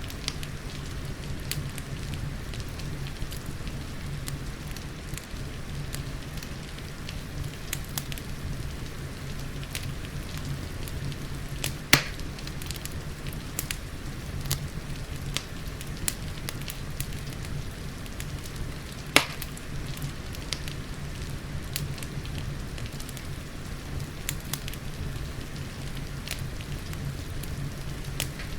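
Wood fire crackling with scattered small clicks over a steady rain-like hiss and low rumble, with two louder pops, one near the middle and another about two-thirds of the way through.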